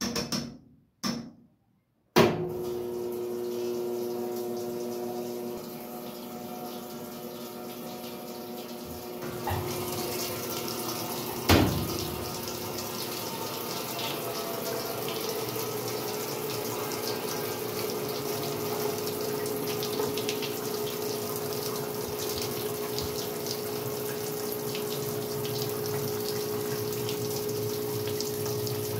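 Westinghouse washing machine filling with water: a few short knocks, then a steady rush of inflowing water with a hum, and one sharp knock about eleven seconds in.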